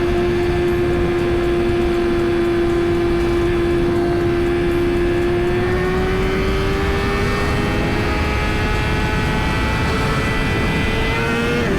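Suzuki GSX-R1000's inline-four engine at highway cruise with wind rushing over the helmet microphone; the engine note holds steady, climbs slowly over the second half, then drops sharply near the end.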